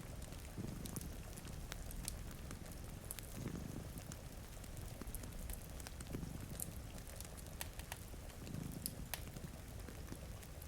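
A cat purring in low swells every two to three seconds, mixed with a crackling fire's scattered sharp pops and a steady hiss of rain.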